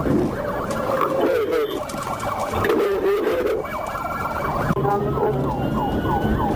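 Police car siren sounding during a pursuit, wailing in slow rising and falling sweeps, then switching to a fast yelp of about three sweeps a second about five seconds in.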